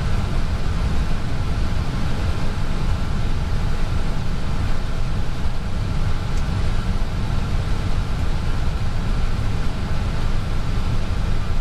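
Airbus A320 cockpit noise while taxiing: a steady low rumble from the idling engines and air conditioning, with faint steady tones above it.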